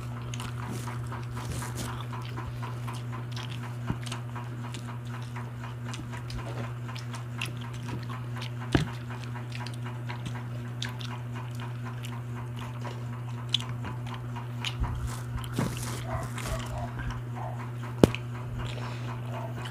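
People chewing and smacking their lips while eating grilled barbecue skewers, with a few sharp clicks, over a steady low hum.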